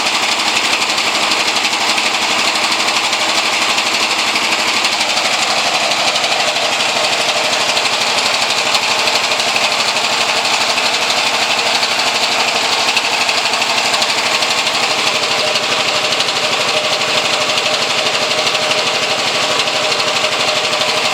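Homemade three-cylinder engine built from Briggs & Stratton lawnmower engine cylinders, running steadily with a fast, even firing rattle, kind of like a 6-cylinder.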